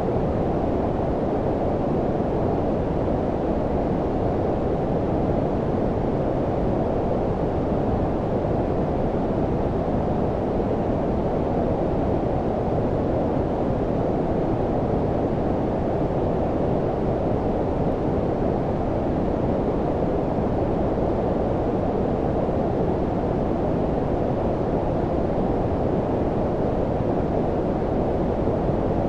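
Steady low-pitched noise, a deep rumbling hiss with its energy below about 1 kHz and little treble, constant with no changes.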